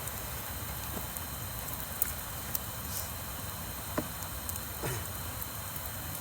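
Wood fire crackling: a steady hiss with scattered sharp pops and snaps.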